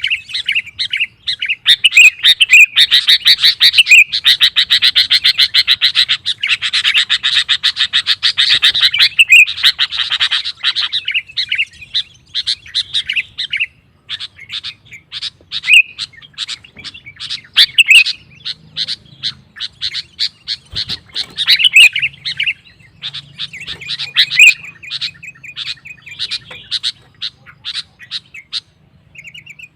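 Sooty-headed bulbul (kutilang) singing vigorously: a dense run of rapid chattering notes for the first ten seconds or so, then shorter phrases with gaps between them.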